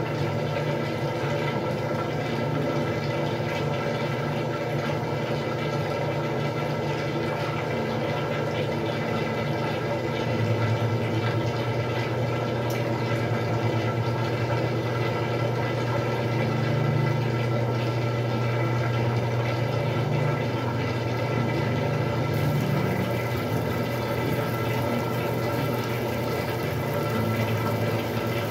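Westinghouse washing machine running: a steady motor hum with rushing water, the hum shifting to a lower pitch about ten seconds in.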